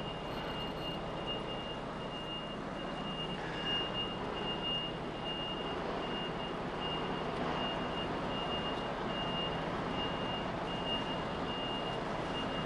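An HGV's reversing alarm beeps evenly, about one and a half beeps a second, over the lorry's diesel engine running as it reverses slowly.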